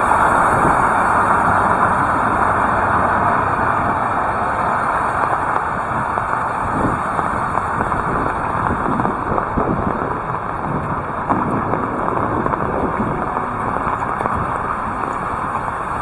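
Heavy rain falling hard, a dense, steady hiss.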